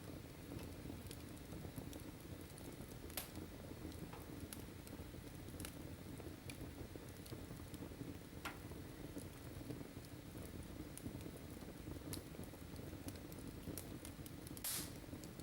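Wood fire burning in a fireplace: a steady low rumble with irregular sharp crackles and pops, the loudest a longer pop near the end.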